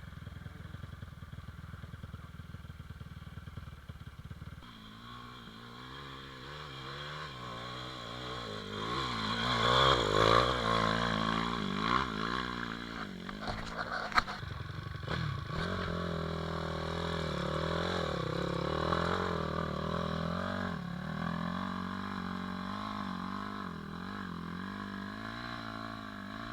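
Pit bike's small single-cylinder engine running, revving up and down with its pitch wavering, loudest about a third of the way in, then settling to steadier running. One sharp click about halfway through.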